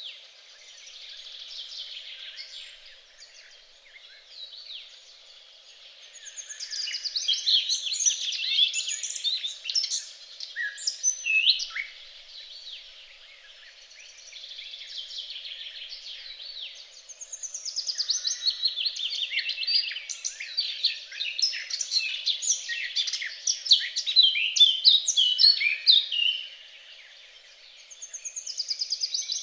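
Several songbirds singing at once: overlapping chirps and fast trills that swell into denser, louder choruses a few times.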